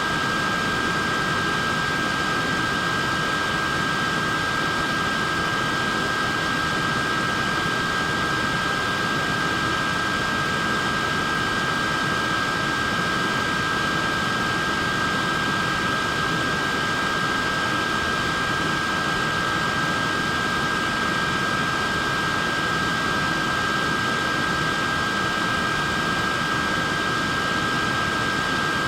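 Neck fan running steadily: an even airy whir with a steady high-pitched whine from its small motor.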